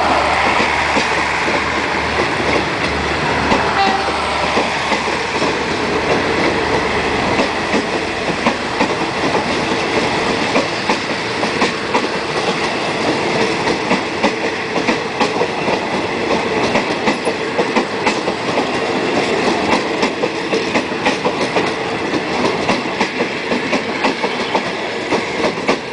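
Thai express train's passenger coaches rolling past as the train departs, wheels clicking over the rail joints and points in a steady clickety-clack. A low hum fades out after about seven seconds.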